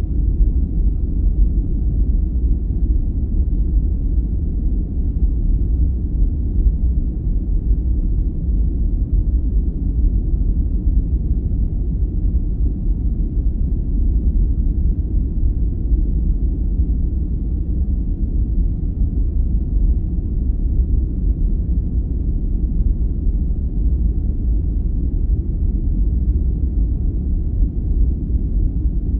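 Steady, unchanging deep noise, a sleep-aid 'white noise' track whose sound sits mostly low down with no hiss on top, closer to brown noise than true white noise.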